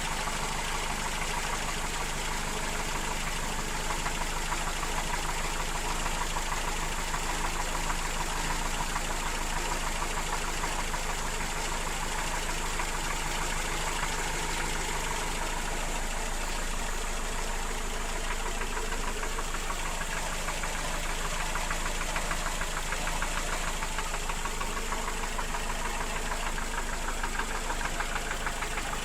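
Mercedes-Benz M102 inline-four petrol engine running steadily with a fast, even knock. The knock is the noise blamed on wear in the cylinders and pistons: worn connecting-rod bearings, small-end bushings, pistons, pins and rings due for replacement.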